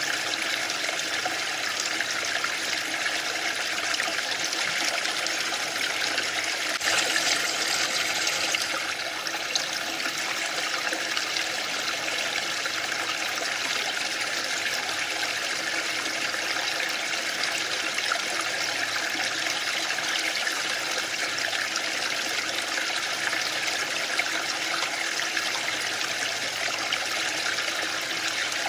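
Waterfall: a steady, even rush of falling water, briefly a little louder and brighter about seven seconds in.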